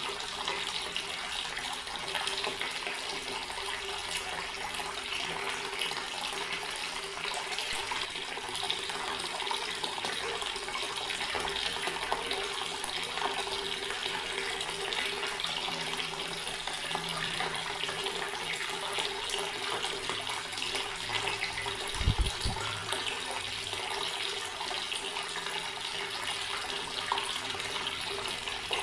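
Garden water tap running in a steady, unbroken stream. A brief low thump comes about two-thirds of the way through.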